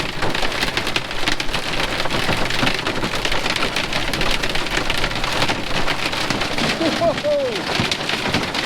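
Heavy driving rain and hail drumming steadily on a truck cab, heard from inside: a dense patter of countless small impacts.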